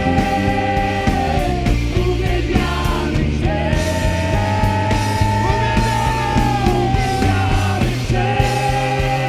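Live worship band playing rock-style music, with a steady drum beat under long held notes.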